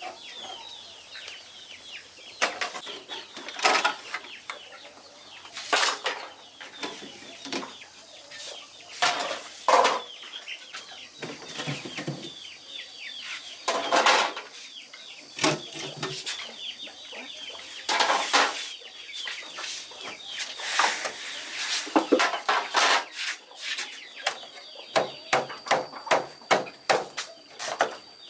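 Chickens clucking, among scattered short knocks and rubs, with a quick run of them near the end.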